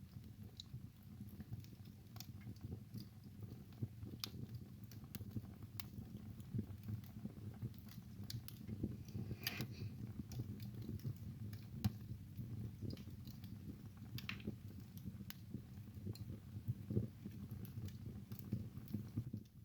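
Wood fire burning in a fireplace: a steady low rumble of flames with irregular crackles and pops throughout, a sharper pop about halfway through.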